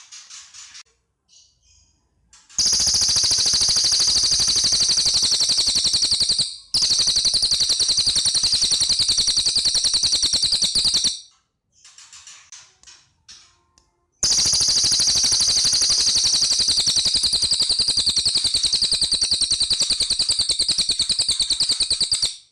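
Cililin bird singing a long, loud, very rapid rattling trill of high notes repeated evenly like machine-gun fire. It sings in three long runs, the last of about eight seconds, with faint short chirps in the pauses between them.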